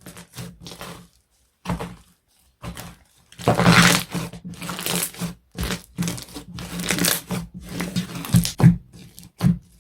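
Slime being squeezed and pressed by hand, giving irregular crinkly, crunchy squishes with short pauses between them.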